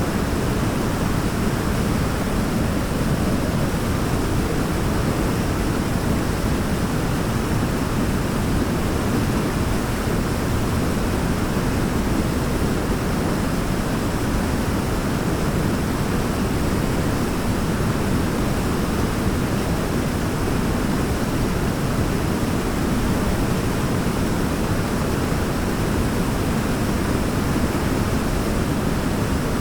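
A waterfall's water rushing in one steady, unchanging wash of noise, heaviest in the low and middle range.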